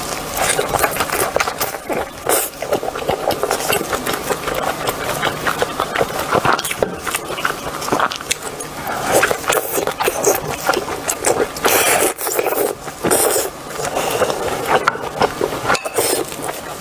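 Close-miked eating sounds: irregular wet chewing, biting and smacking of chewy food, lamb intestine stuffed with meat.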